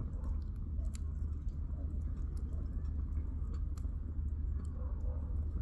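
Wood campfire crackling, with irregular sharp pops and snaps of burning firewood over a steady low rumble.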